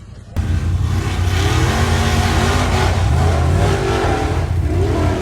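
Off-road 4x4 vehicle's engine revving hard, its pitch rising and falling as the throttle works. It comes in abruptly about half a second in.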